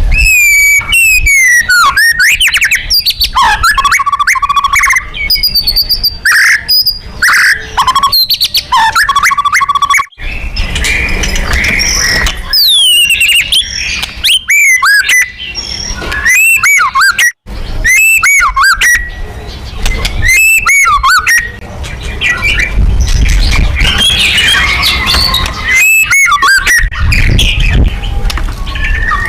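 White-rumped shama (murai batu) singing loudly and without pause: a varied song of clear whistles, fast trills and series of repeated looping notes, with mimicked calls of other birds worked in.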